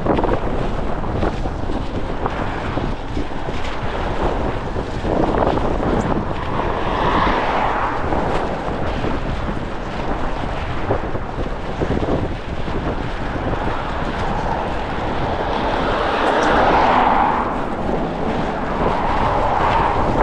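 Strong gusty wind buffeting the microphone, with vehicles passing on the road; the loudest swells of passing traffic come about seven seconds in and again near the end.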